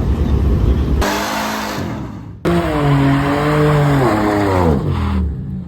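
Car engine revving hard at a street meet, its pitch wavering up and down over a loud hiss. It breaks off sharply about two and a half seconds in, resumes, and falls away near the end.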